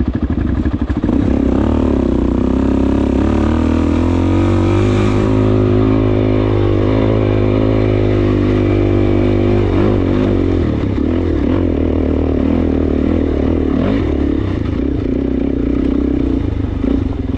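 Suzuki DR-Z400S's single-cylinder four-stroke engine pulling hard under load on a hill climb. It holds fairly steady revs for several seconds, then rises and falls unevenly through the second half.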